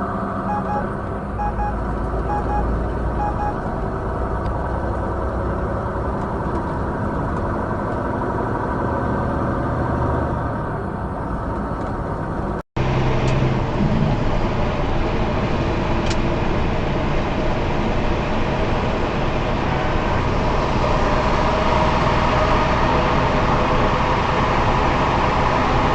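Steady engine and road noise of a vehicle driving, picked up by a dash camera. About halfway through, the sound drops out for an instant and changes to a slightly louder, brighter road noise from another vehicle.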